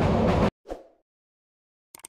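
Passenger train running, a rumble and wheel clatter on the rails, that cuts off abruptly about half a second in. It is followed by a brief whoosh and, near the end, a single short click.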